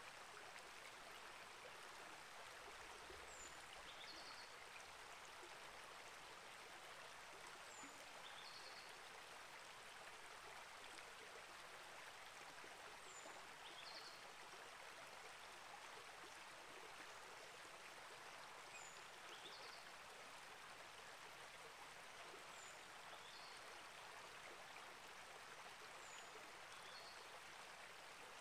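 Small rainforest creek flowing steadily, a faint, even rush of water. A short, high bird call with several falling parts repeats about every four to five seconds over it.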